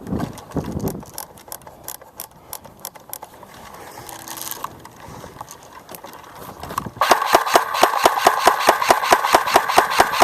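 Paintball marker firing a rapid, even string of shots, about seven a second, starting about two-thirds of the way in. Scattered single clicks and knocks come before it.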